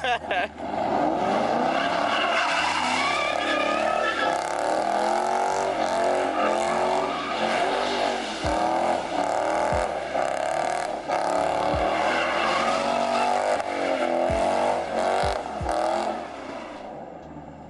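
A car drifting or doing donuts, its tyres squealing continuously under a revving engine for about sixteen seconds, then dying away near the end.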